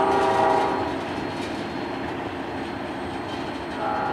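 Freight train of covered hopper cars rolling by with a steady rumble and wheel clatter. The multi-note horn of its lone SD40-2 locomotive is sounding, breaks off about a second in, and starts again near the end.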